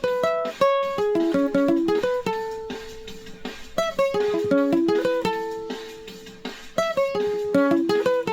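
Instrumental music on a plucked string instrument: a melody of quick picked notes, some left ringing, with no singing.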